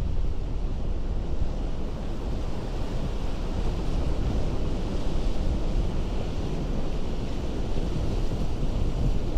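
Ocean surf breaking against a rocky coast: a steady rush of water, with wind buffeting the microphone.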